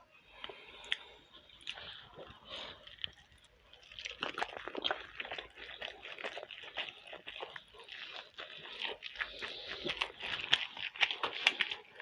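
Someone chewing a large mouthful of momo dumplings: wet, squelching mouth and lip clicks, sparse at first and becoming busier and louder from about four seconds in.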